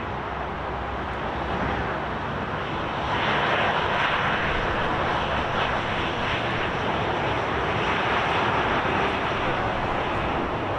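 Jet airliner engines running, a steady rushing noise that grows louder about three seconds in and holds.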